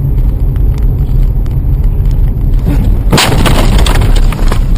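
A car collision: a sudden loud crash with cracking about three seconds in, over a steady heavy low road rumble.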